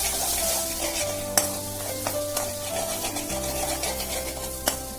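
Beaten egg with onion, tomato and spices sizzling in oil in a pan while being stirred, with a few sharp clicks of the spatula against the pan. Background music with held notes plays underneath.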